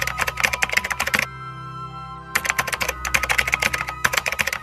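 Rapid computer-keyboard typing sound effect, in two runs: one for about the first second, then a pause of about a second, then typing again to the end. Soft background music with sustained tones plays underneath.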